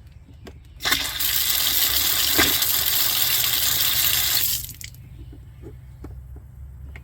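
Outdoor hose faucet opened about a second in, water gushing out loudly for nearly four seconds, then shut off: a test run of the faucet after its worn washer was replaced.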